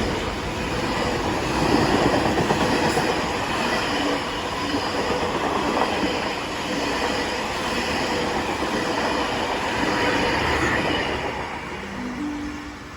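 Southern Aurora heritage train passing through the station, its carriage wheels clattering steadily over the rail joints. The sound fades away near the end as the train draws off.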